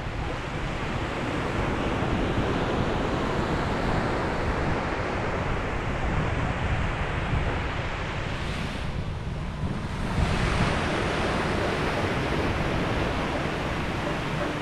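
Ocean waves breaking and washing on a beach, a continuous surf with wind on the microphone; the wash eases around two-thirds of the way in, then a fresh wave surges.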